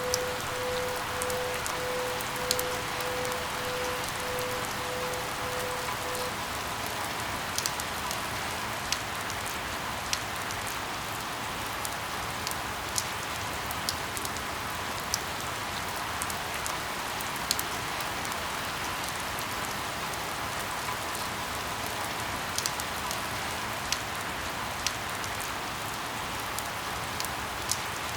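Steady rain falling, with individual drops ticking sharply at irregular intervals. A faint pulsing tone runs under it and stops about six seconds in.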